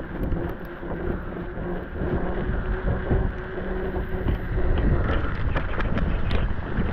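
Wind buffeting the microphone with a low, steady rumble and a faint hum. Sharp crackles come in over the last couple of seconds.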